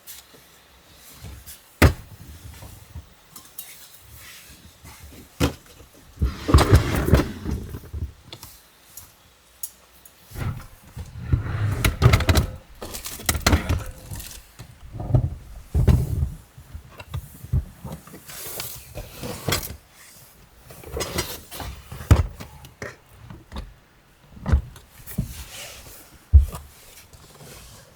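Gear being handled and set down: a series of sharp knocks and thunks with bouts of rustling and clatter between them.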